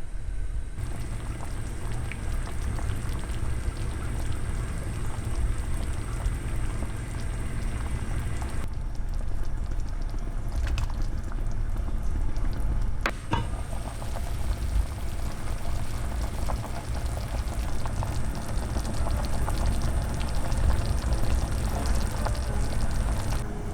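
Pot of water at a boil, a steady low bubbling, with a few sharp clinks, the loudest about 13 seconds in.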